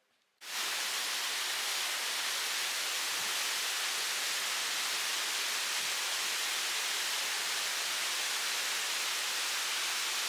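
A waterfall rushing: a steady, even roar of water that comes in about half a second in.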